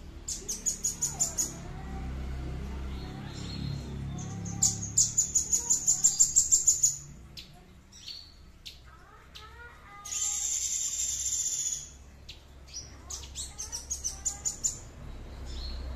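A songbird singing: runs of sharp, high repeated chip notes at about six a second, broken by a dry buzzy trill about ten seconds in, then more rapid chips.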